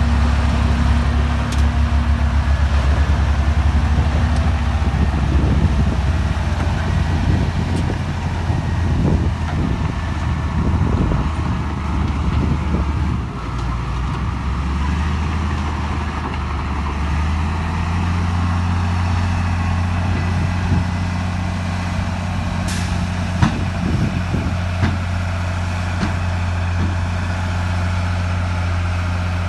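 Heavy diesel engine of earthmoving machinery running under load, its note shifting partway through and then settling steady, with a couple of short sharp clicks.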